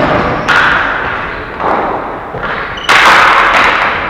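Ball hockey play: a few sharp thuds and knocks from the ball and sticks striking the boards, the loudest near the end, each ringing out in the arena.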